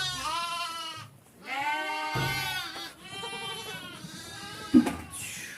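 Goats bleating: three long wavering calls in a row, the third fainter, then a sharp knock shortly before the end.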